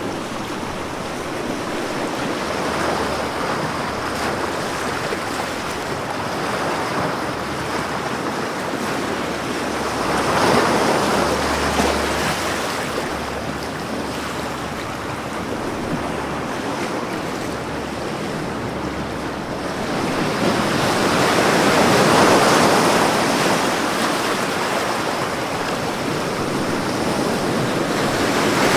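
Ocean waves breaking on a beach in a continuous wash of surf, with swells about ten seconds in, a longer one about twenty seconds in, and another near the end.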